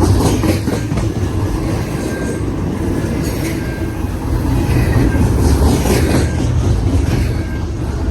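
Long intermodal freight train rolling past: a steady heavy rumble of the cars, with wheels clacking over the rail joints.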